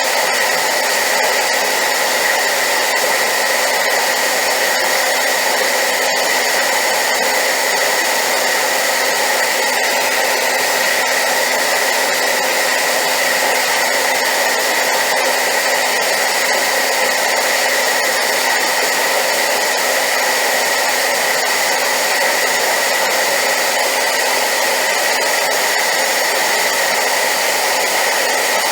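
Hair dryer running steadily at high power: a loud, even rush of blown air with a steady high whine over it.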